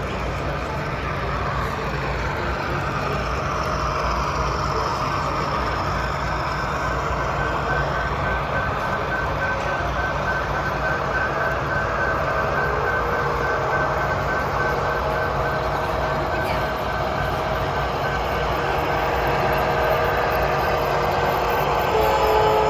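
Model train running on a club layout, against a steady background of hall noise and a low hum. A thin high whine holds for much of the time, with a few fainter tones coming in later.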